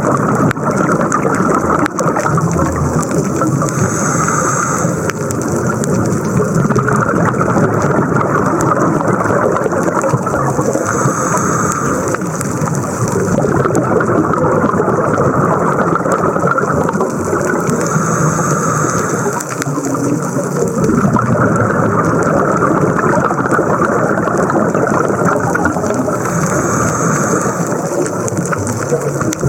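Underwater recording of scuba diving: a steady rushing noise, with a burst of a diver's exhaled regulator bubbles about every seven seconds.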